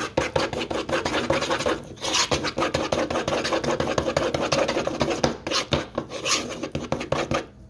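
Metal spoon scraping rapidly against the sides and bottom of a small plastic bowl, stirring cornstarch into juice to make a slurry for thickening gravy. The stirring pauses briefly about two seconds in and again near the end.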